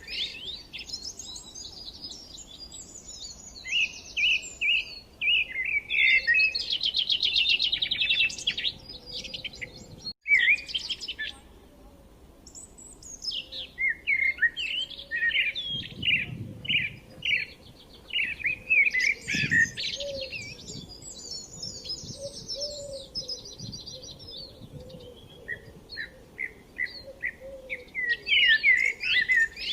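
Small songbirds chirping and singing: runs of quick chirps and fast trills coming in bursts, with a brief gap about ten seconds in.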